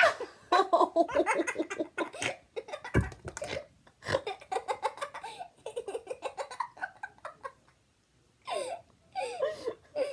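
Laughter: giggling in quick repeated bursts, with a short pause near the end before a few more giggles.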